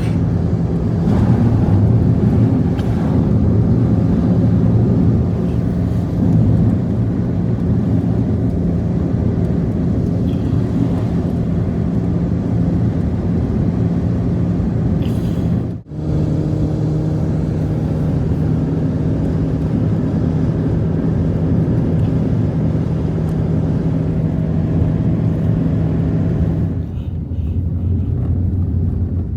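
An engine running steadily at a constant pitch. The sound breaks off for a moment about halfway through, then carries on the same.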